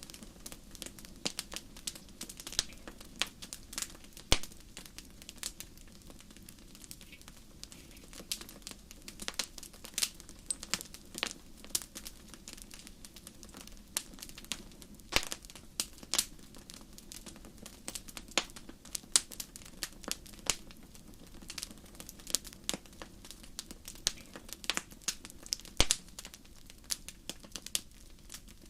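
Campfire burning, the wood crackling with a steady stream of irregular sharp pops over a low, even hiss. A few pops stand out louder, about four seconds in, midway and near the end.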